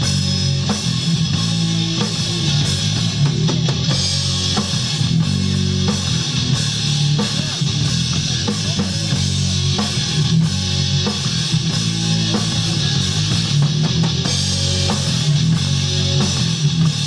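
Live rock band playing: guitars and drum kit.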